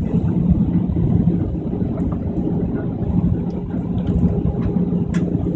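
Steady low drone of an airliner's engines and rushing air inside the passenger cabin during the landing approach, with a constant low hum running through it.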